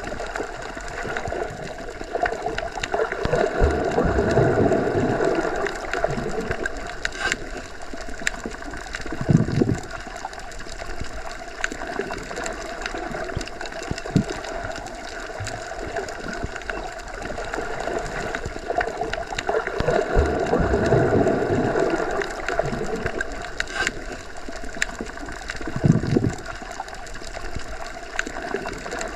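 Muffled underwater ambience: a steady rushing water noise with a faint hum, swelling into a louder surge twice, about sixteen seconds apart, each followed a few seconds later by a low thud.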